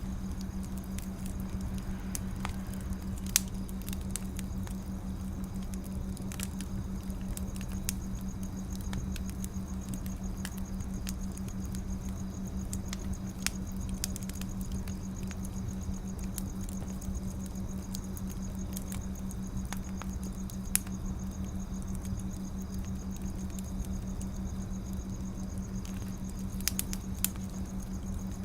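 Wood fire crackling: a steady low rumble with scattered sharp pops and snaps, a few of them louder, one about three seconds in. A constant low hum runs underneath.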